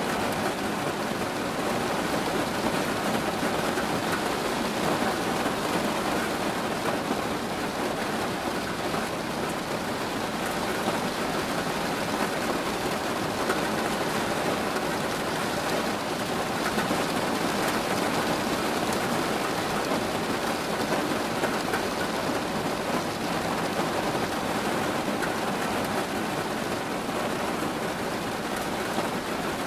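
Steady rain falling on a surface, a dense even hiss of drops.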